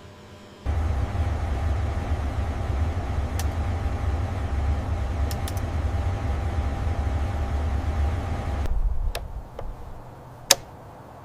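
A Bombardier Global Express jet rumbling low with a steady whine as it rolls during a taxi brake check. The rumble starts suddenly about half a second in and stops after about eight seconds. A few sharp clicks follow, one of them loud.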